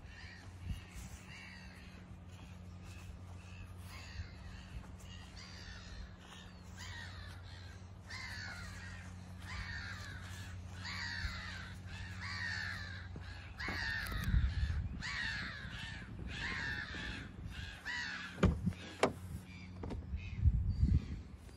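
A bird calling over and over with harsh, falling calls, over a steady low hum. A few dull thumps come near the end.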